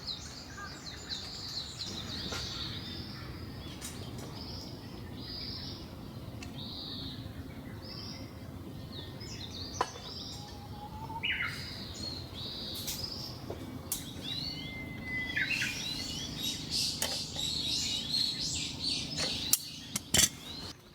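Wild birds chirping and trilling almost without pause, with a few longer whistled notes, over a steady background hiss. A few sharp clicks sound near the end, the loudest things in the stretch.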